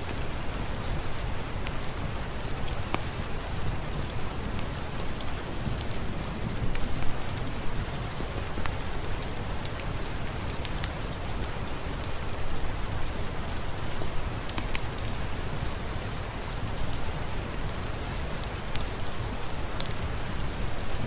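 Steady heavy rain falling, a dense even hiss over a deep steady rumble, with many scattered sharp little ticks and crackles.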